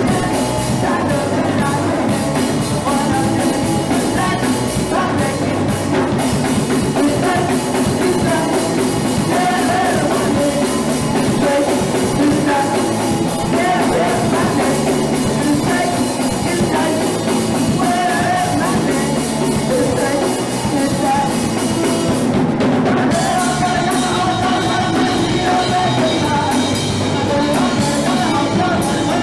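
Live punk rock band playing loudly, with drum kit and singing, continuous through the whole stretch.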